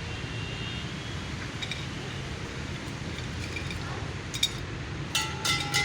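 A few sharp clinks with a brief ringing tone near the end, after a single click, over a steady low rumble.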